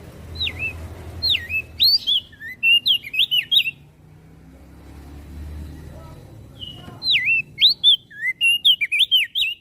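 Crested dark-eye (opior jambul) singing: two quick phrases of swooping whistled notes, each about three seconds long, with a pause of about three seconds between them.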